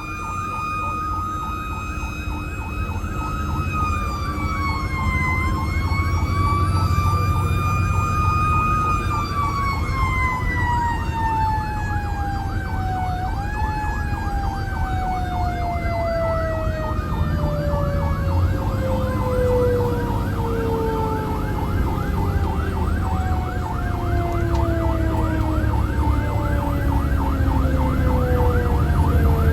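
Fire engine running its sirens. One siren holds a long wail, then winds slowly down in pitch over the last twenty seconds, while a second siren yelps rapidly and steadily under it. The truck's engine rumbles beneath both.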